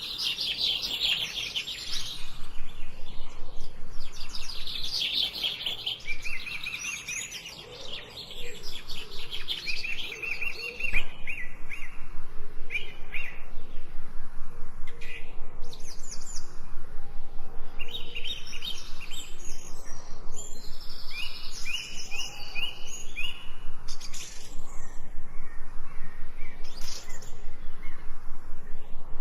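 Songbirds chirping and singing, many short high notes overlapping. About a third of the way in they settle into a fast, steady run of chirps.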